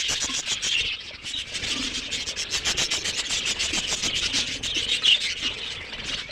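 A flock of budgerigars chattering: a dense, high-pitched mass of rapid chirps and warbles.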